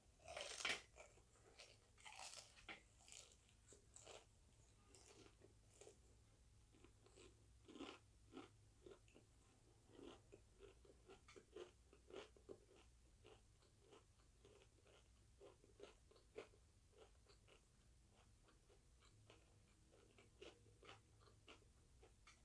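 Faint crunching and chewing of crispy fried chicken skin, with irregular crackly bites that are busiest in the first few seconds and then come more sparsely.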